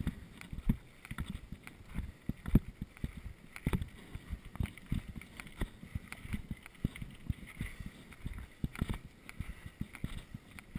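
Mountain bike clattering over rough trail: a steady stream of irregular knocks, rattles and thumps, several a second.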